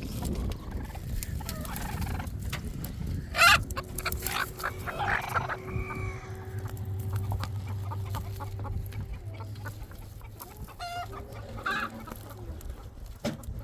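Chickens clucking and calling, with one loud, short call about three and a half seconds in that stands out above the rest.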